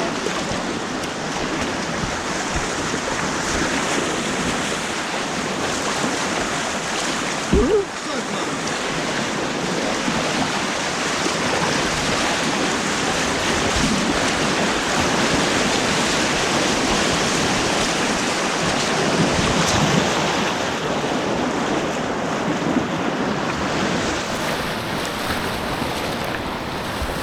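Rushing white water of an artificial white water course, a steady churning rush heard from a kayak, with a single sharp knock about eight seconds in.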